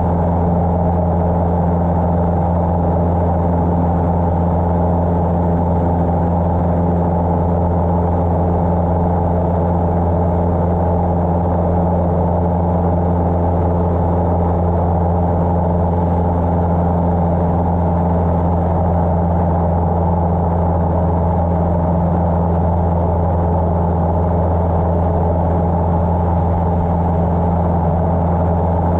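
Cessna 150's four-cylinder Continental O-200 engine and propeller droning steadily at a constant power setting, with no change in pitch or loudness.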